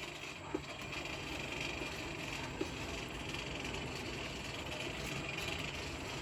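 Blacksmith's forge running with a steady rushing hum while the blade heats, with a faint knock or two.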